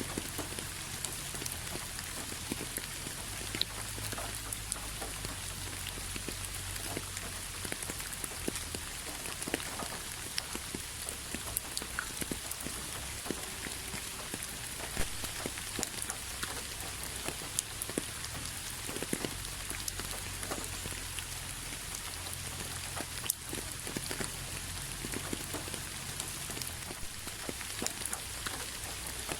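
Steady rain with many individual drops ticking sharply on a hard surface, over a faint low rumble.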